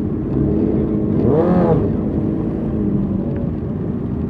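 Motorcycle engines running in a parade with a steady low rumble; about a second and a half in, one engine revs briefly up and back down.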